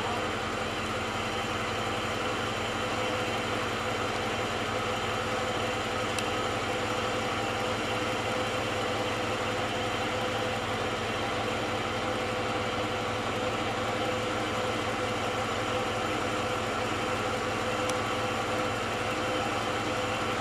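Steady hum of a car engine idling, unchanging throughout, with two faint ticks, one about six seconds in and one near the end.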